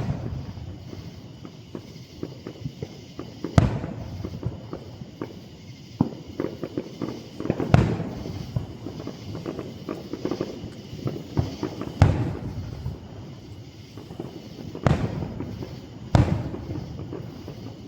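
Aerial fireworks display: about six heavy shell bursts booming a few seconds apart, with smaller pops and crackling in between.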